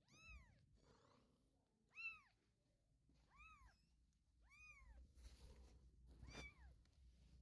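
Three-week-old kitten mewing: five short, thin, high-pitched mews about every second and a half, each rising then falling in pitch.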